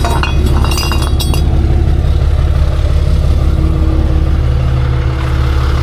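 Tow truck engine idling steadily, with light metal clinking in the first second and a half as steel wheel-lift spacers are slid in the L-arms.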